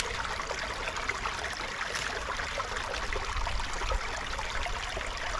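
Small woodland stream running, a steady rushing trickle of water.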